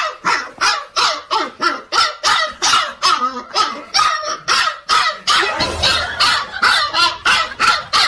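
Dog barking over and over in a fast, even run, about three barks a second.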